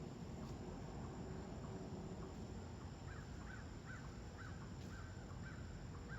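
A bird calling repeatedly: a quick run of short calls starting about three seconds in, over a steady insect chorus.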